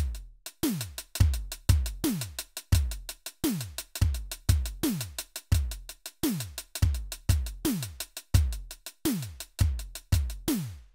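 Electronic drum sounds played on a Roland SPD-SX Pro sampling pad. Deep bass-drum hits drop sharply in pitch on each strike, with crisp snare and hi-hat hits in between, in a repeated beat that starts and stops abruptly.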